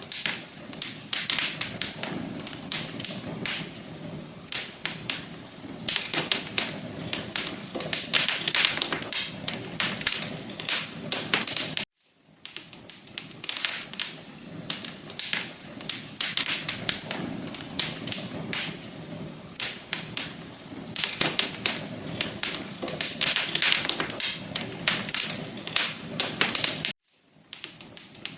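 Wood fire crackling in a fireplace: dense, irregular pops and snaps over a soft low rumble. It cuts out for a moment twice, about twelve seconds in and near the end.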